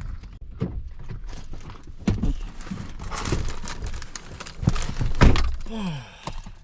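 Irregular knocks and thuds over a low rumble inside a truck cab, with a short wavering tone near the end.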